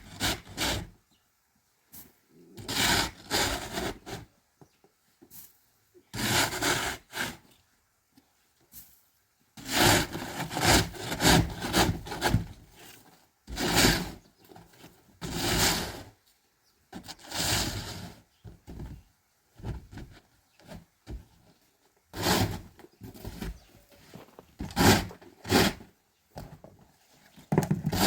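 Rough scraping strokes on wood, coming in irregular groups of strokes about a second long with short pauses between them.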